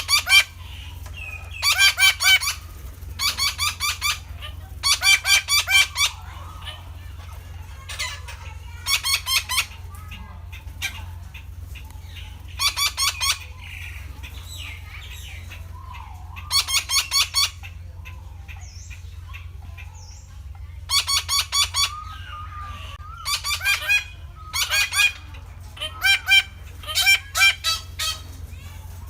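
Red-breasted parakeets calling: bursts of rapid, pulsed calls about a second long, repeated every few seconds, over a steady low hum.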